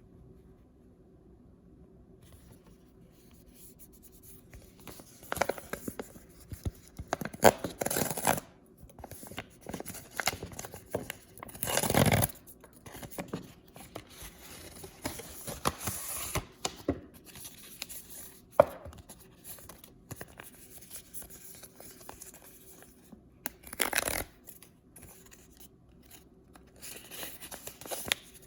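Packaging of blind-bag toys, including paper blind bags, being handled, crinkled and torn open. Scratchy crackles come and go, and there are several longer tearing bursts, the loudest about twelve seconds in.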